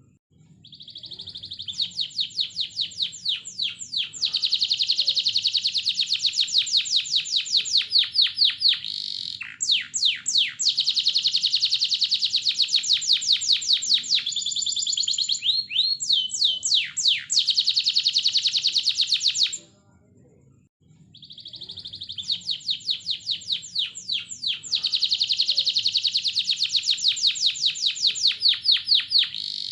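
Domestic canary singing long phrases of fast rolling trills and rapidly repeated notes, with a break of about two seconds around two-thirds of the way through before the song resumes. It is a lure song of the kind used to set other canaries singing.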